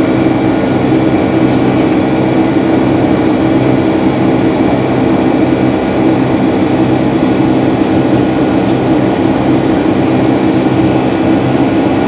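Steady jet engine and rushing air noise heard inside the cabin of a Boeing 757-300 in flight, a constant drone with a low hum under it.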